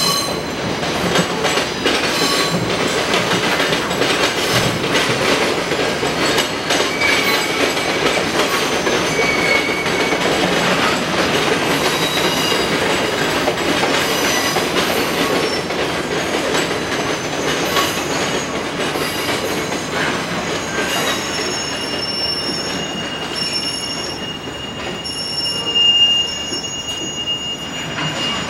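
Train running with a steady rumble, its wheels squealing on the rails in thin, drawn-out high tones that come and go, with the loudest squeal near the end.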